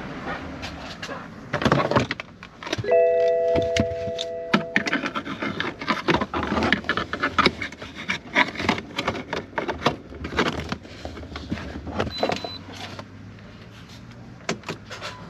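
Irregular metallic clattering and clicking, like tools, fasteners and parts being handled, with a brief chime-like tone of several pitches about three seconds in.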